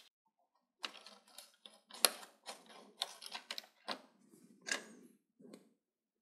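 Irregular sharp clicks and taps of plastic television parts being handled and unclipped, about a dozen, with light scuffing between them; the loudest click comes about two seconds in.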